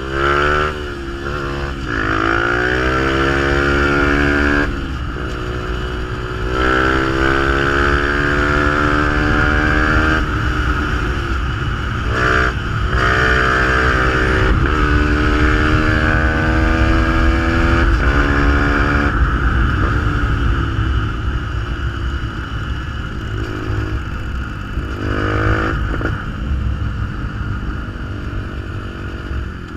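Fantic 125 supermotard's engine through a GPR aftermarket exhaust, pulling up through the gears: the engine note climbs and drops back at each shift several times. It then settles and eases off, with one more short blip near the end.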